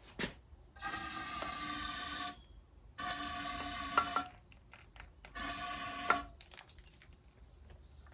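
Three hissing bursts from a pressurised nozzle, each carrying a steady whistle, with a sharp click near the end of the second and third bursts.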